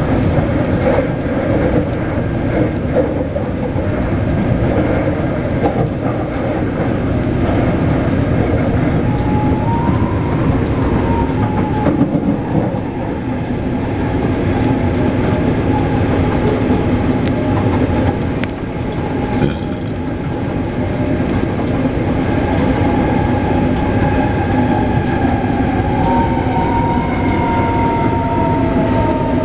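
Taipei Metro C381 electric train running between stations: steady wheel-and-rail rumble with some clickety-clack and the electric whine of its traction motors. Near the end the whine's tones fall in pitch as the train slows.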